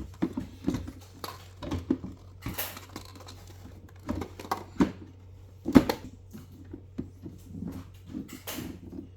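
Irregular clicks and knocks of washing machine set parts being handled and fitted together, with the sharpest knock a little past the middle.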